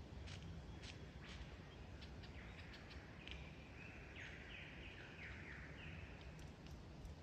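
Faint clicks, then a lyrebird singing a phrase of notes, several of them sliding down in pitch, from about two and a half seconds in to near the end.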